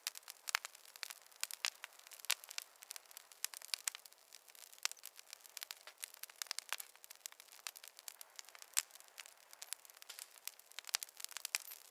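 Wood fire in a fireplace crackling: many irregular sharp pops and snaps over a faint hiss, thin with no low rumble, and one louder snap about nine seconds in.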